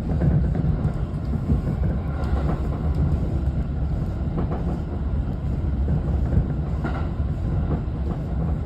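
Tokyo Metro 17000 series electric train running at speed, heard from inside the car: a steady low rumble of wheels on rail, with a few faint clicks.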